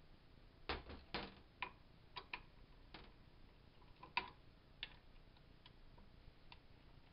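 Faint, irregular clicks and taps of small parts and screws being handled as a Crosman PowerMaster 760 BB gun is taken apart, about a dozen in the first five seconds, the loudest just past four seconds in.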